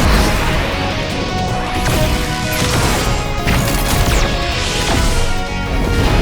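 Cartoon battle sound effects: repeated crashes and impacts with a few whooshes, over dramatic background music.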